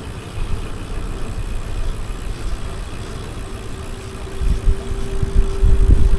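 Street traffic with a low rumble of wind on the microphone that grows stronger near the end. A steady engine hum comes in about halfway through.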